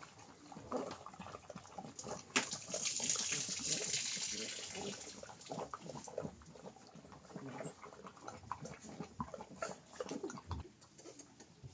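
A domestic animal making a run of short, irregular snuffling and mouth noises close by. A loud rushing hiss, like water, comes in about two seconds in and fades out over the next few seconds.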